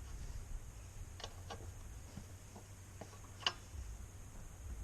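A handful of faint metallic clicks and taps of spanners working the rear-wheel chain adjuster of a Motoland RT200 dirt bike, the sharpest about three and a half seconds in, over a low rumble.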